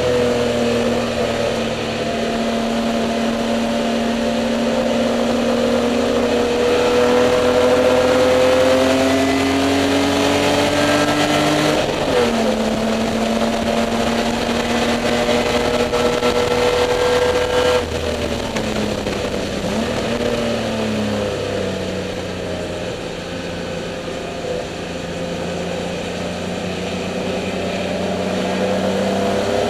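Spec E30 BMW race car's inline-six heard from inside the cockpit at racing speed: engine pitch climbs steadily under full throttle, drops sharply with an upshift about twelve seconds in, climbs again, then falls back around eighteen to twenty seconds and holds a lower steady pitch before rising again near the end.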